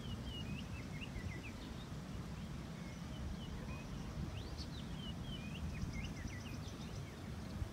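Small birds chirping, many short high calls scattered throughout, over a steady low outdoor rumble. A quick run of fine ticks comes near the end.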